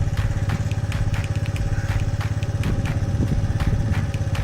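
Motorcycle engine running steadily at low revs, a fast even low putter with light ticking over it.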